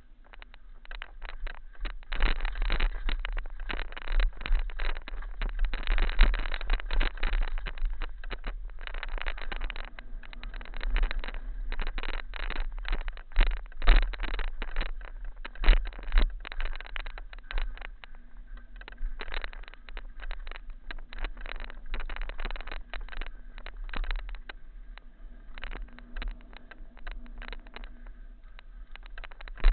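Mountain bike rattling and clattering down a rocky descent, with dense irregular knocks from the tyres, frame and chain striking stones and loose ground. A steady low rumble of wind and vibration runs underneath.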